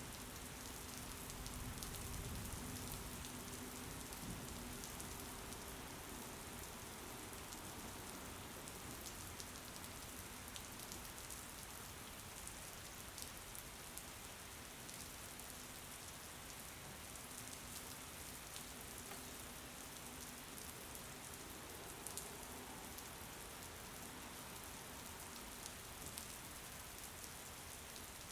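Steady rain with scattered individual drops ticking, and a faint low rumble about two seconds in.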